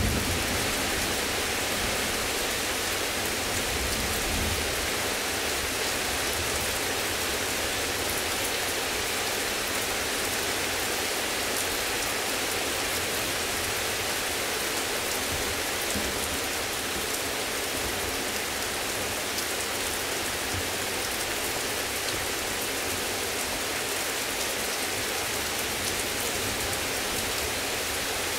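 Heavy rain falling steadily, an even dense hiss. The last of a low thunder rumble dies away in the first few seconds.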